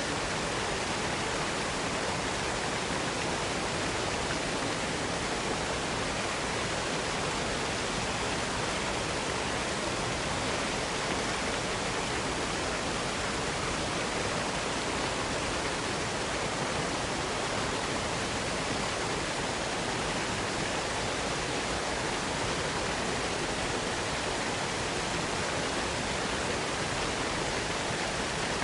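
Water pouring steadily down a cascading waterfall: an unbroken, even rushing that stays at one level throughout.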